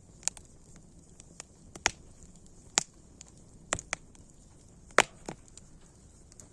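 Wood fire crackling: sharp, irregular pops and snaps, about seven of them, over a faint steady hiss, the loudest about five seconds in.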